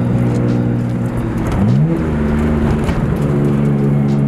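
R32 Skyline GT-R's twin-turbo straight-six running under way, heard from inside the cabin. About a second and a half in, the engine note rises quickly, then holds steady at a slightly higher pitch.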